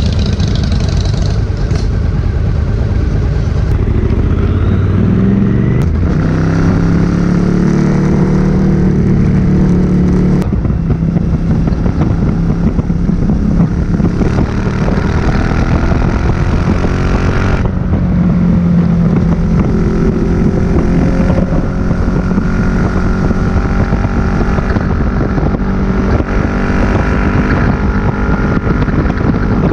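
2005 Suzuki SV1000S's V-twin engine through a Leo Vince aftermarket exhaust, heard onboard while riding. The engine pitch climbs under acceleration and drops sharply at upshifts, about ten and about seventeen seconds in.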